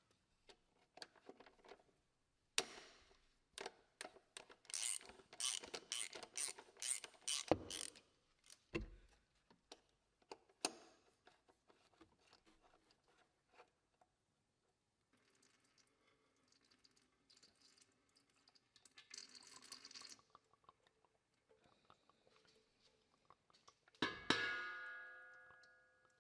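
Ratchet wrench with a 13 mm socket clicking in quick runs, about three to four clicks a second, as a bolt is turned out. Near the end a metal part clinks down and rings briefly.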